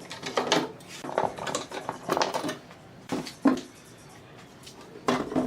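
Irregular clattering knocks and scrapes of hard objects being handled, with a short lull before two last knocks near the end.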